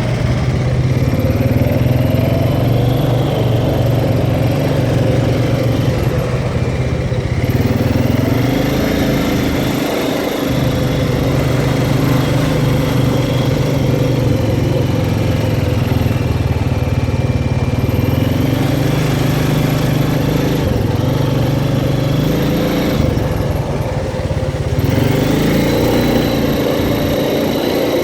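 Off-road four-wheeler (ATV) engine running under way, its pitch dipping and climbing again a few times as the throttle is eased off and opened back up.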